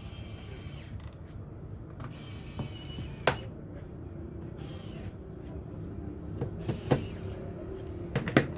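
A few sharp clicks and knocks over a steady low background hum: one loud click about three seconds in, another near seven seconds, and a quick pair near the end.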